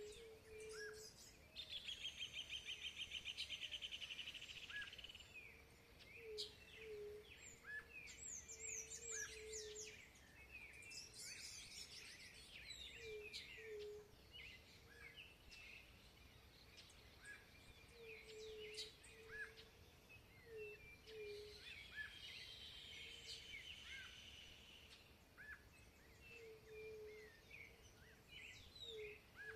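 Several wild birds singing and calling at once: many short chirps, a fast trill early on and again past the middle, and a soft low two-part call repeating underneath.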